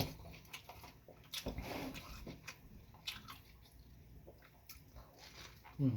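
Close-up eating sounds: wet chewing and mouth noises with small clicks of food and utensils, and a longer slurping, squishing patch about one and a half seconds in.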